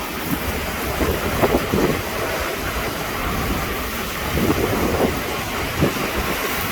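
Heavy rain and strong wind in a severe thunderstorm: a steady rushing with a deep rumble underneath, surging briefly a few times in gusts.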